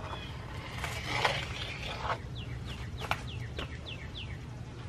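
A bird calling a quick series of about seven short, falling chirps, with a few light knocks and rustles from plastic planter tiers being stacked onto a pole.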